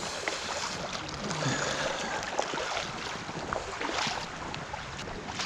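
Steady rushing of a fast-flowing creek running over its bed, with a few faint clicks.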